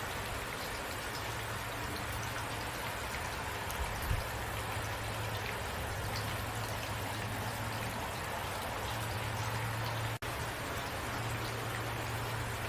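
Steady rain falling, an even dense patter with a low steady hum underneath; the sound cuts out for a split second about ten seconds in.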